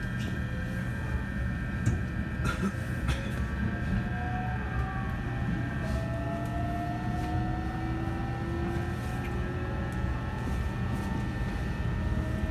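E129 series electric train running, heard from inside the car: a steady low rumble of wheels on rail with a whine that slowly rises in pitch. A few clicks come about two to three seconds in.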